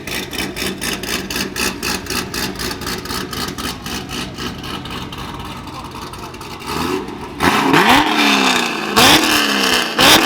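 Car engine running with an even pulse, then revved hard several times in the last few seconds, each rev climbing quickly and falling away.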